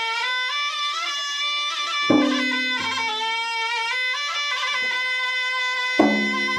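Traditional Makassar gendang ensemble. A puik-puik double-reed shawm plays an unbroken, wavering reedy melody, and the gendang drums strike a heavy ringing stroke twice, about two seconds in and near the end.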